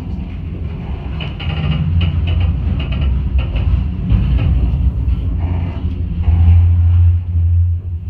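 Flåm Railway train carriage running, heard from inside: a steady low rumble with rattling and clicking from the running gear and the carriage, swelling about a second in and again near the end.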